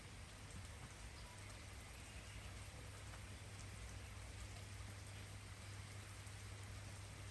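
Steady, faint rainfall, with a steady low hum underneath.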